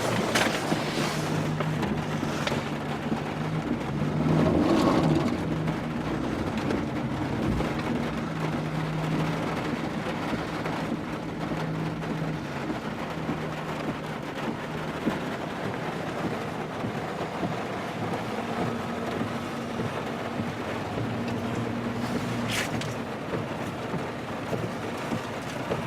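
Pickup truck engine running steadily, heard from inside the cab, over a steady wash of rain and road noise. There is a louder swell about four to five seconds in.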